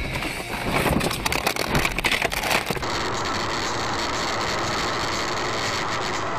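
Car dashcam audio: for about two seconds a rapid run of clicks and knocks over road noise, then a change to steady vehicle driving noise.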